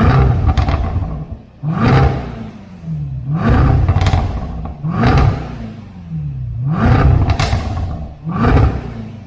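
Range Rover SVR's supercharged 5.0-litre V8 on an FIE full exhaust system firing up with a loud flare, then revved in five short throttle blips about every second and a half, each rising and falling away.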